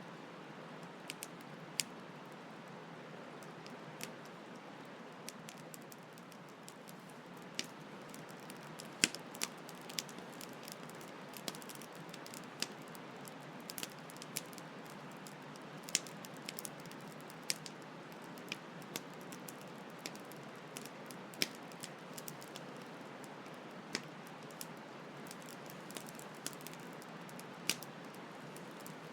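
Campfire crackling with irregular sharp pops, about one or two a second, over the steady rush of a flowing stream.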